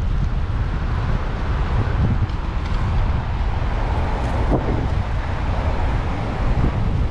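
Wind buffeting the microphone of a bicycle-mounted action camera while riding, a steady low rumble with road noise underneath.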